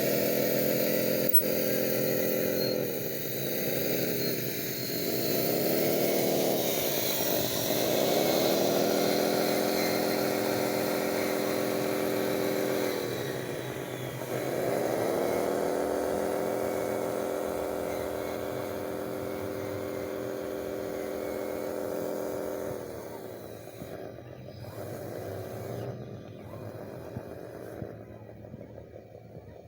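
Small electric motor of a radio-controlled construction model running with a steady whine. Its pitch sags and recovers several times as it is loaded and throttled, then it dies away about 23 seconds in.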